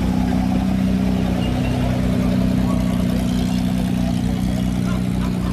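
A vehicle engine idling steadily, with a low, even throb under it.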